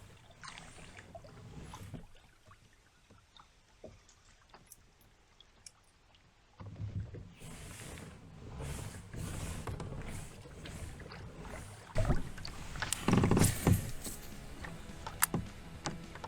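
A fishing kayak on the water: water movement and handling sounds against the hull. It is quiet at first apart from a few sharp ticks, grows busier from about six and a half seconds in, and has loud knocks about twelve and thirteen seconds in.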